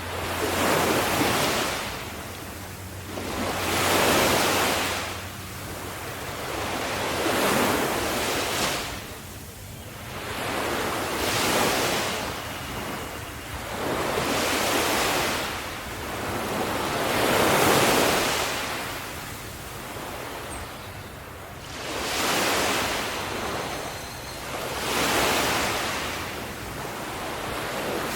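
Ocean waves breaking on the shore, each surge of surf swelling and washing back in a slow rhythm about every three to four seconds.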